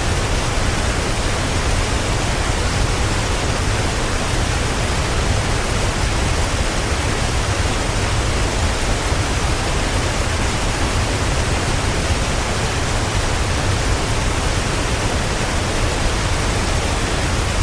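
Mountain stream water rushing and splashing over mossy rocks, a steady, even rush with no breaks.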